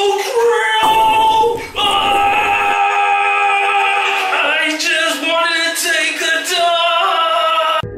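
Choir-like singing, several voices holding long notes in harmony, which cuts off suddenly at the end.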